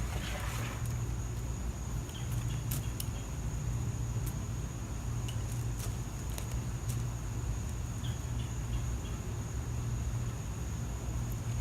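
Steady outdoor background: a constant low hum with a thin, continuous high tone over it and scattered small clicks, with a brief rustle in the first second.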